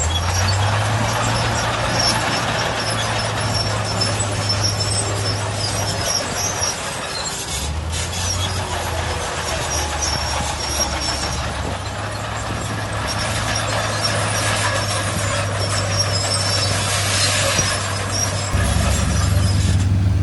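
Diesel engine of heavy earthmoving machinery running under load, its note shifting about eight seconds in and again near the end, with high metallic squealing over the top.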